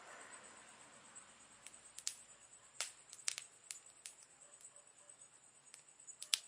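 Wood campfire crackling: irregular sharp pops and snaps over a soft hiss of burning, with the loudest snaps about three seconds in and just before the end.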